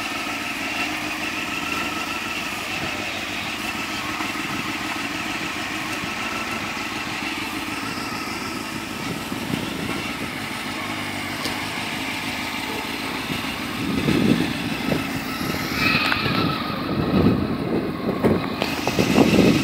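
Sport motorcycle engine idling steadily, then revving in uneven surges from about two-thirds of the way in as the bike moves off.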